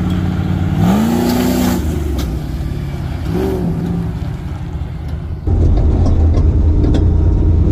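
Motor vehicle engine revving under throttle, rising in pitch about a second in and again briefly around three and a half seconds, then much louder and harder running from about five and a half seconds.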